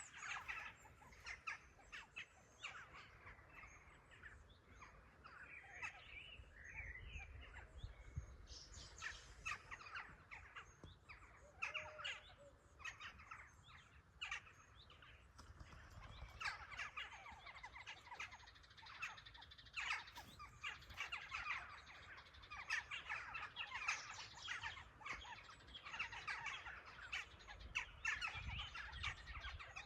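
A chorus of small birds chirping and calling, with many short overlapping chirps and twitters throughout.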